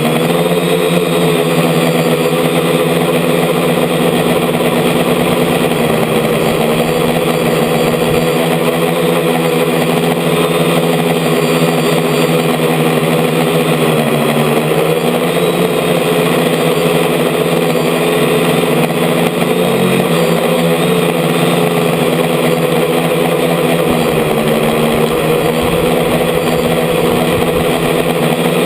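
DJI F450 quadcopter's electric motors and propellers running loudly, heard from a camera mounted on the frame. Their pitch dips and rises again several times as the throttle changes.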